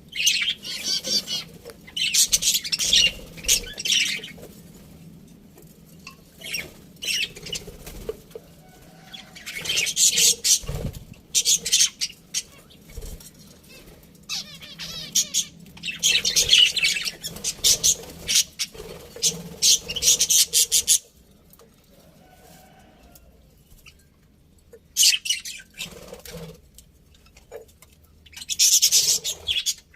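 Budgerigars chirping and chattering in bursts of a few seconds, separated by quieter gaps.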